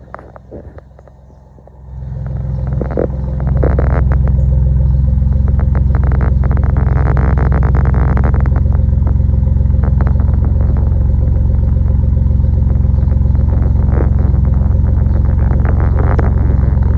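Exhaust of a 2017 Ford Raptor's twin-turbo 3.5-litre V6, muffler deleted and resonator kept, running with a steady deep drone. The drone swells in about two seconds in and holds loud and even after that, with a few light clicks before it.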